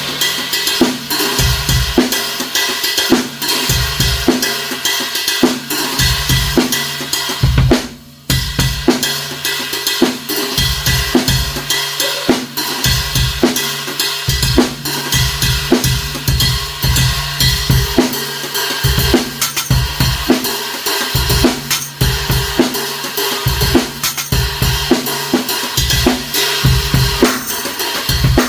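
Drum kit groove with bass drum, snare and a stacked cymbal ridden: a 22-inch Meinl Classics Custom Dark crash ride carrying a sizzle ring, sitting on a 14-inch Sabian crash for an unusual cut-short wash. The playing stops for a moment a little after 8 seconds in, then carries on.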